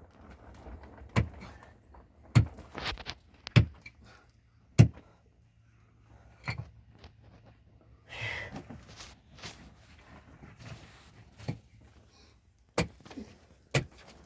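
Irregular sharp knocks and clunks of hard objects being handled and set down, about ten in all, with a brief scraping rustle partway through.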